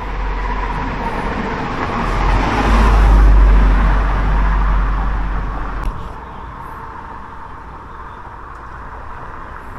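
Wind rumbling on the microphone of a moving bicycle, with road noise. It swells about three seconds in and drops off suddenly about six seconds in, leaving a quieter hiss.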